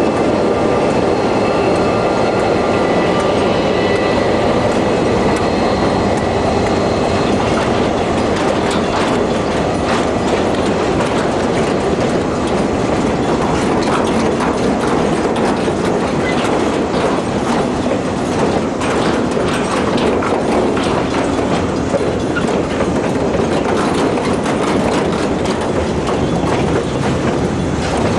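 Freight train wagons rolling past on the rails, a steady clatter of wheels over the track joints. A thin, high wheel squeal rings over it during the first several seconds, then fades.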